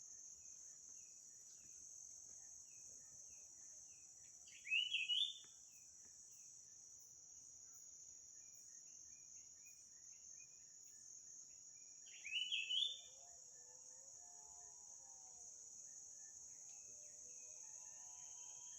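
Steady high-pitched drone of insects, with a bird giving a short loud rising call twice, about five seconds in and again about twelve seconds in. Fainter bird chirps sound between them, and a soft warbling call comes in after the second loud call.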